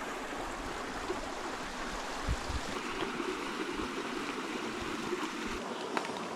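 Steady rush of creek water flowing over rock in a slot canyon, with a few low bumps about two seconds in.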